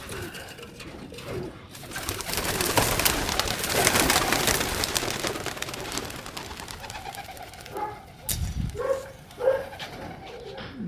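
A group of pigeons flushed into the air, their wings clattering for several seconds, followed near the end by pigeons cooing.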